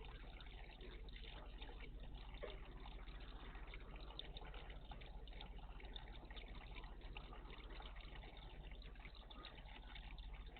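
Faint, steady trickle of water in a bird bath, with a low hum beneath.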